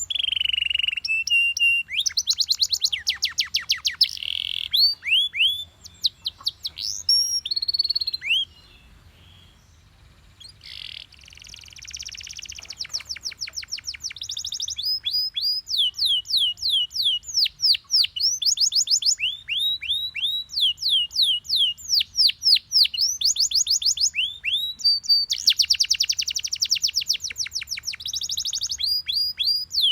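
Canary singing: fast trills of repeated, quickly falling whistled notes mixed with some held notes. The song breaks off for a couple of seconds about a third of the way in, then resumes as a long, near-continuous run of rapid trills.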